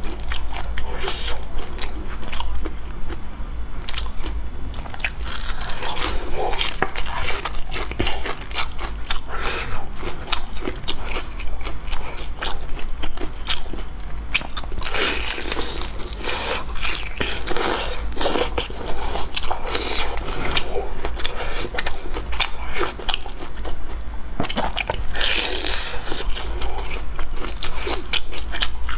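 Biting into and chewing fried cakes (youzhagao), the crisp fried crust crunching, with many small crunches.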